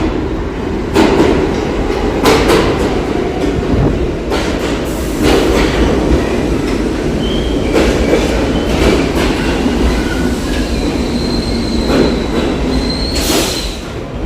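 A New York City subway train running loud, its wheels clacking repeatedly over the rail joints. In the second half a thin, high wheel squeal comes and goes.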